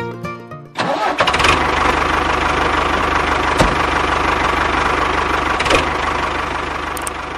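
A small motor starts abruptly about a second in and runs steadily with a fast, even whir, easing off slightly near the end.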